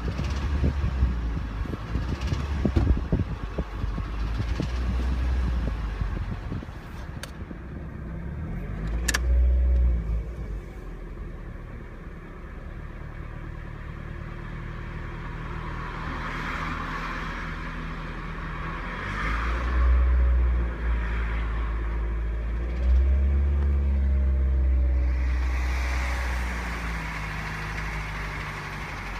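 Rebuilt Toyota Yaris 1NZ-FE inline-four engine running, its revs rising and falling several times, with a sharp click about nine seconds in. The owner reports a high-pitched metallic rattle from inside this engine, most audible between 1800 and 2000 rpm.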